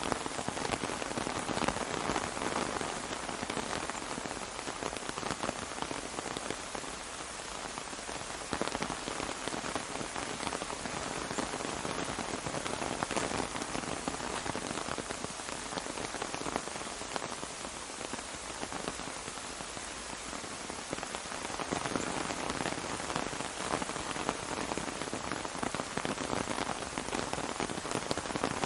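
Steady rain falling on an umbrella: a dense, continuous patter of drops that eases and swells slightly.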